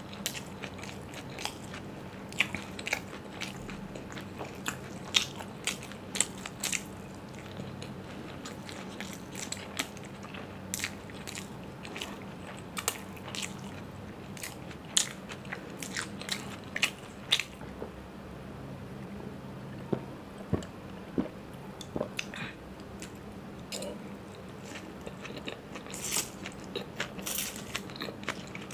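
A person chewing food close to the microphone, with frequent crisp crunches scattered irregularly throughout.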